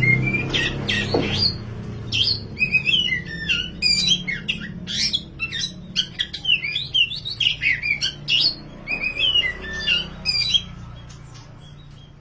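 Oriental magpie-robin of the black 'kacer wulung' form singing a fast, varied run of whistled and chattering notes, over a low steady hum. The song stops near the end.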